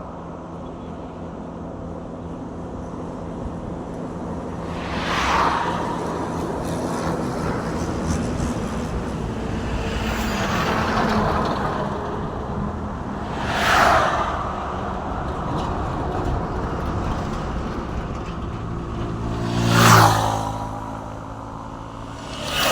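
Road traffic with trucks passing close by one after another: four separate pass-bys, each swelling to a peak and fading, over a steady road rumble. The loudest pass, about 20 seconds in, carries a low engine note.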